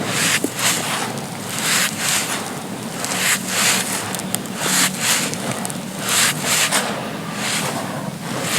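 Dry, crispy chunks of pure sand being crumbled: grainy crunch after crunch, about one or two a second.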